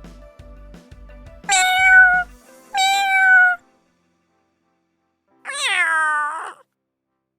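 Domestic cat meowing three times, each a drawn-out call that falls slightly in pitch, the last one longer and lower. Faint background music plays under the first two seconds.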